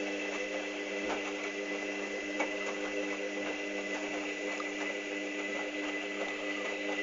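Hoover Dynamic DYN 8144 D washing machine running its pre-wash, the drum motor giving a steady whine with light ticks and splashes from the tumbling wet towels.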